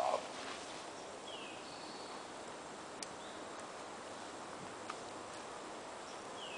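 Faint outdoor ambience with birds calling now and then, short quick falling notes, with a brief louder sound right at the start and two sharp clicks in the middle.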